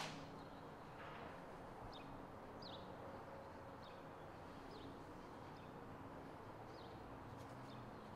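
Quiet room tone with a faint low hum, and short, faint bird chirps now and then, each a quick falling note.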